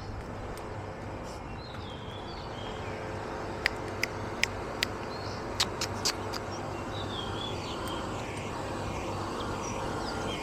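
Small birds chirping over a steady street background hum. Midway comes a quick run of about seven sharp clicks, the loudest sounds here. Near the end a repeated rising-and-falling call sets in.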